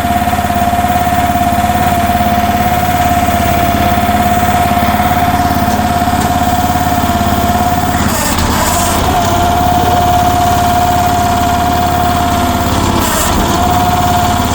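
Future FT15 mini excavator's gasoline engine running steadily, with a steady high whine over a low drone. The whine wavers and dips briefly twice, about 8 and 13 seconds in.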